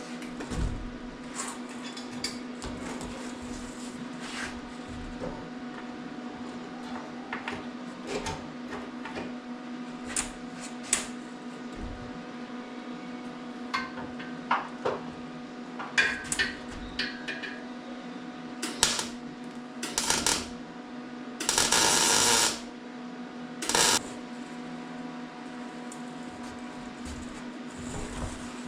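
Scattered clinks, clicks and knocks of tools and metal parts being handled, over a steady electrical hum. About 21 seconds in there is a loud hiss lasting about a second, and a shorter one follows near 24 seconds.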